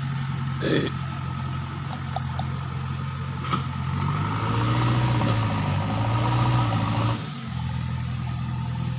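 An engine running at idle with a steady low hum. Its pitch wavers up and down for a few seconds past the middle, then settles back to a steady idle.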